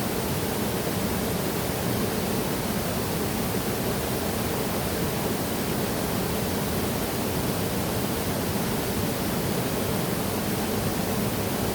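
Waterfall: falling water making a steady, even noise with no changes.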